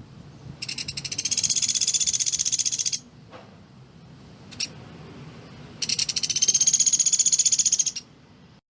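Sunda pygmy woodpecker (pelatuk beras) giving two long, very rapid rattling trills of about two seconds each, with a short burst between them.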